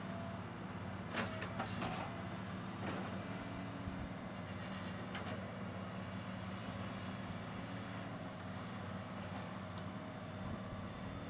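Cat excavator's diesel engine running steadily, with a few sharp metallic clanks in the first few seconds and one more about five seconds in.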